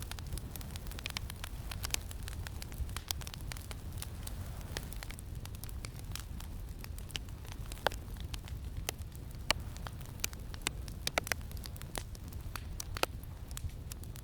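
Campfire crackling, with irregular sharp pops, a few louder ones scattered through, over a steady low rumble of wind.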